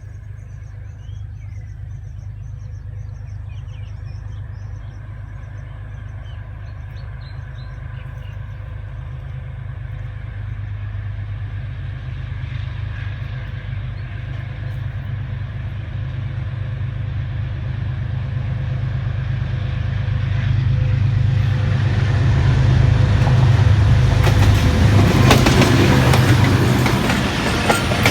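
GE U20C (GEU20) diesel-electric locomotive running under power as it pulls away, its low engine drone growing steadily louder as it draws near. The noise of the train on the rails builds up over the last few seconds.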